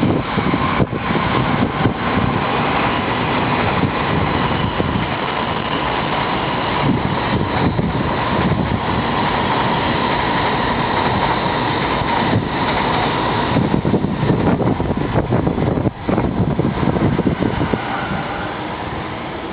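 Strong typhoon wind blowing on the microphone: a continuous rumbling roar that rises and falls with the gusts.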